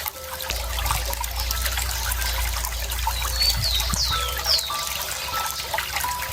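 Running water trickling steadily, with a bird giving three quick downward-sliding chirps about three to four and a half seconds in.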